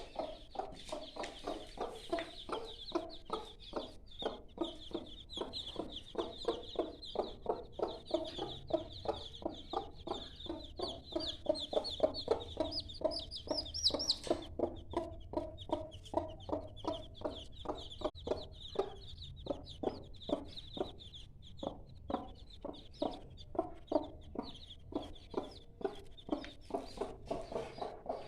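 Mother hen clucking steadily to her five-day-old chicks, short low clucks about two or three a second, with the chicks peeping continuously over them, the peeping loudest in the first half and fainter after about halfway.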